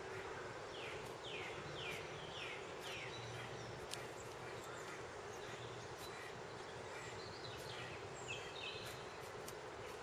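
Wild woodland birds calling over a steady background hiss: a run of about five quick, falling notes between one and three seconds in, then scattered short, high chirps near the end. A sharp click stands out about four seconds in.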